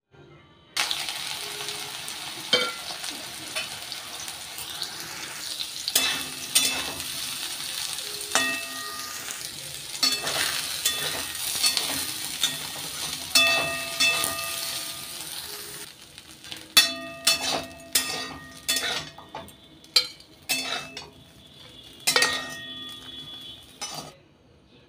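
Soya chunks sizzling in hot oil in an aluminium kadhai while a spatula stirs them, scraping and clinking against the pan with short ringing tones. After about 16 seconds the sizzle drops away and separate, louder spatula clinks on the pan remain.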